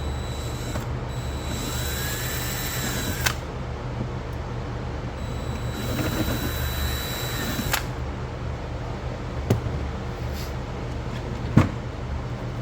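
Plastic bag chute of a pool cleaner being cut: two stretches of cutting, each a couple of seconds long and ending in a sharp snap, then a few separate clicks. A steady low hum runs underneath.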